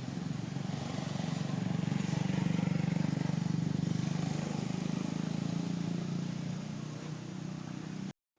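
A motor vehicle engine running close by with a steady low hum. It grows louder over the first few seconds, eases off, and cuts off suddenly near the end.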